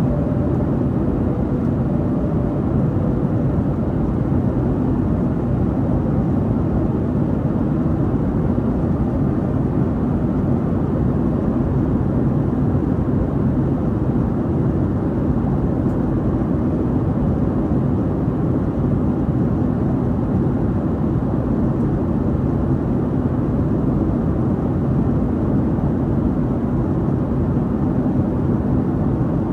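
Steady cabin roar of a Boeing 737-800 with CFM56-7B turbofans, heard from a window seat: engine and airflow noise, constant and heavy in the low end.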